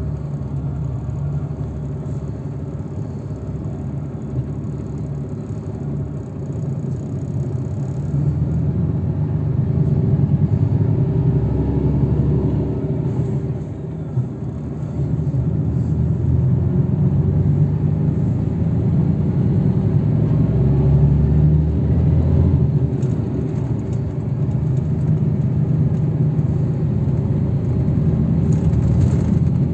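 A road vehicle driving, heard from inside: a steady low engine and tyre rumble. It grows louder about a third of the way in as the vehicle picks up speed, dips briefly near the middle, then rises again.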